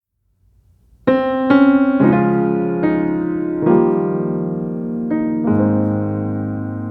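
Background piano music: a slow melody of single struck notes and chords, each ringing and fading, starting about a second in after a moment of silence.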